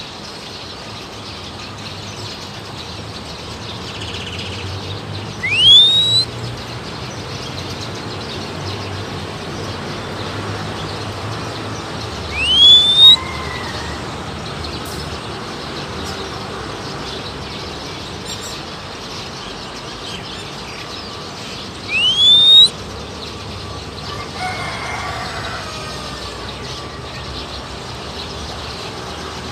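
Three loud, short whistles, each gliding upward, about seven to ten seconds apart, with fainter bird calls in between over a steady outdoor hiss. The whistles are either someone whistling to call an oriental magpie-robin or the bird's own answering calls.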